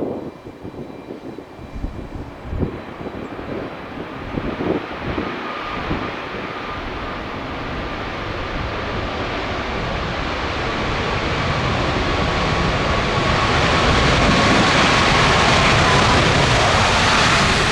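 Boeing 737 MAX 8 jet engines growing steadily louder as the arriving airliner comes near, loudest near the end, with a whine that drops slightly in pitch. Wind buffets the microphone in the first few seconds.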